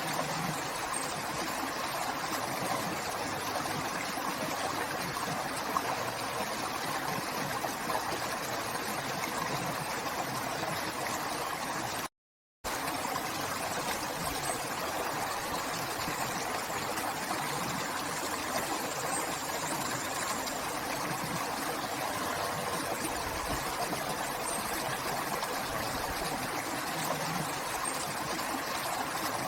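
River water flowing, a steady rushing stream. It cuts out completely for about half a second about twelve seconds in.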